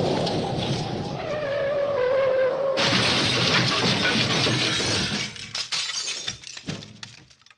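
Sound-effect smash: a sudden loud crash of shattering glass about three seconds in, with fragments tinkling and clattering as it dies away, ending abruptly just before the end. Before it, a rumbling noise carries a faint tone sliding slightly downward.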